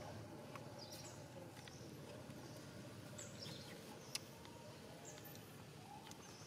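Faint outdoor ambience with scattered short, high, downward-sliding bird chirps and one sharp click about four seconds in.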